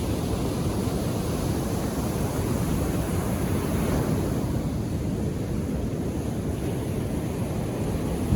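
Calm ocean surf: waves washing onto the shore as a steady, deep rushing noise, swelling slightly about four seconds in.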